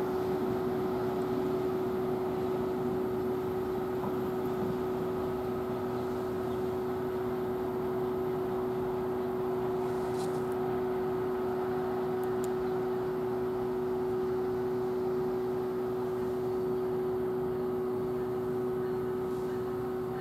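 Steady electrical hum of a train standing at the station platform: a constant droning tone over a soft hiss, holding the same pitch and level throughout.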